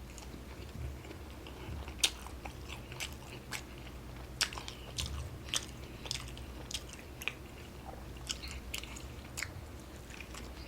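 Close-miked chewing of a fast-food burger-and-fries meal, with irregular wet mouth clicks and smacks about one or two a second, over a faint steady low hum.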